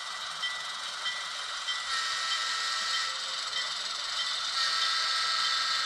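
HO scale model locomotive moving ahead, a steady hissy, whining sound. A short tone repeats a little under twice a second at first; about two seconds in, steadier tones take over and the sound gets a bit louder.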